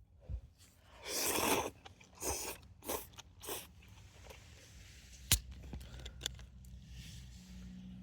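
A person eating ramen: a run of noisy mouthfuls and chewing, the loudest about a second in, then a single sharp click about five seconds in.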